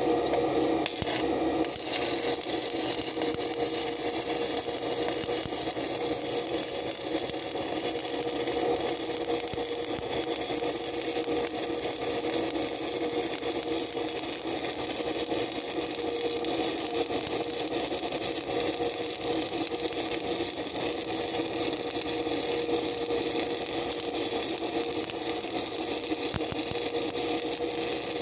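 Stick-welding arc crackling and sizzling steadily on steel, over a steady hum from the welding machine; the crackle comes in fully about a second and a half in as the arc is struck.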